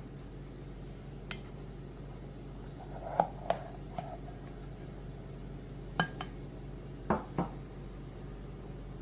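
Cups or glassware being handled, clinking and knocking about eight times in a scattered run, over a faint steady low hum.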